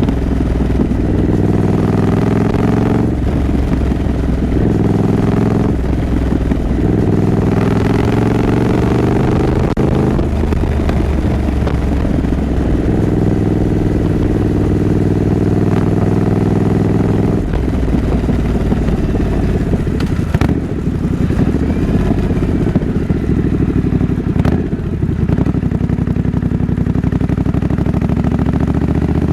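2024 Triumph Scrambler 900's 900cc parallel-twin engine and exhaust running under way, its pitch dropping and climbing again several times with throttle and gear changes.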